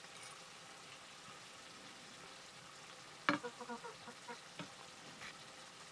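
Potato curry sizzling faintly in a wok while being stirred with a metal spoon, with a sharp knock of the spoon against the pan about halfway through and a few lighter clicks after it.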